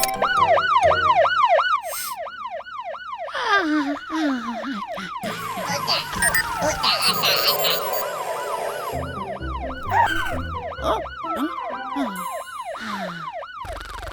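Cartoon siren sound effect, a fast rising-and-falling wail repeating about three times a second, with a few falling glides mixed in.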